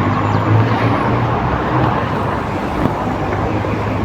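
Steady road traffic noise: a continuous rumble of vehicles with an engine-like low hum.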